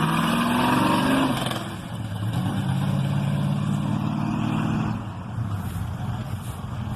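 A car engine revving: its pitch climbs slowly, eases off about a second and a half in, climbs again, and drops back to a lower, rougher running at about five seconds.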